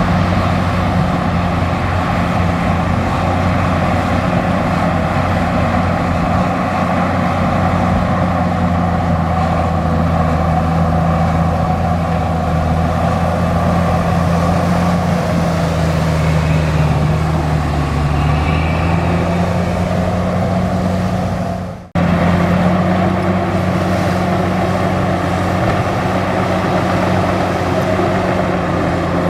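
Bulldozer's diesel engine running steadily under load, its pitch sagging slightly for a few seconds past the middle. The sound drops out abruptly for an instant about two-thirds of the way through, then carries on as before.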